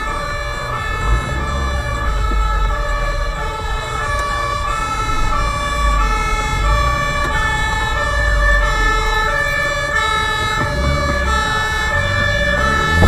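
Fire truck siren sounding steadily, switching back and forth between two tones, over a low rumble.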